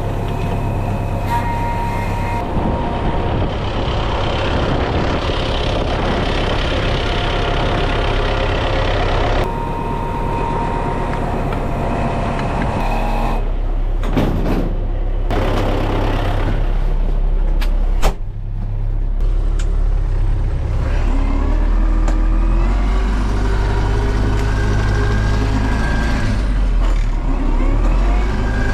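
Tractor engine running under load while plowing snow, its pitch shifting up and down as the load and throttle change, with one sharp knock about eighteen seconds in.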